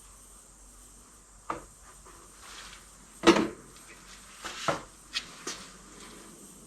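Handling clatter: a handful of short knocks and taps, the loudest about three seconds in, as containers and tools are moved about during a hydraulic oil refill.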